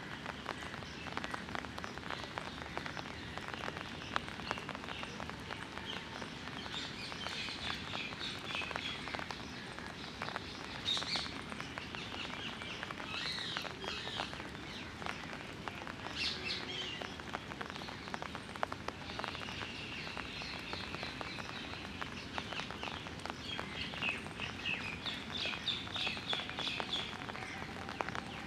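Small birds chirping in repeated bursts over the steady patter of drizzle and dripping water.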